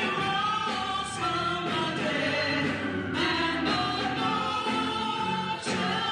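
A choir singing a sacred piece, with sustained notes that shift every second or so.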